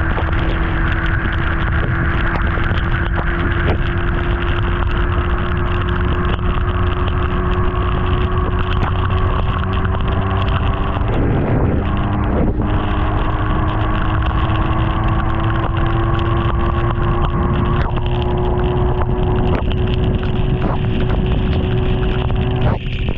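BMW S1000RR inline-four engine running at steady riding revs, with heavy wind noise buffeting the microphone. The engine note breaks off briefly about halfway through and again near the end.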